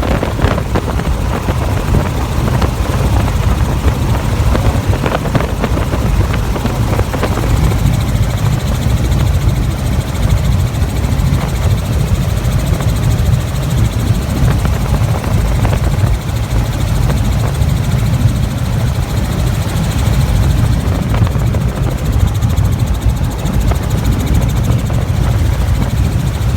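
Helicopter in flight: steady, loud rotor and engine noise, strongest in the low end and unbroken throughout.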